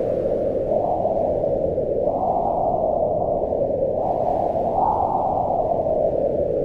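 Wind blowing as a steady, low rushing noise that swells higher and stronger in gusts about two seconds in and again near five seconds.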